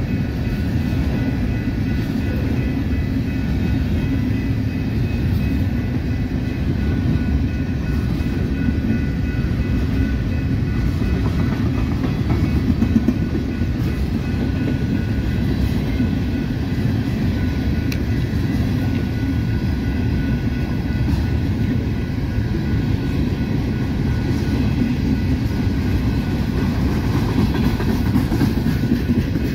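Freight train of open-top hopper cars rolling past at close range: a steady rumble of steel wheels on rail, with faint high steady tones and scattered clicks over it.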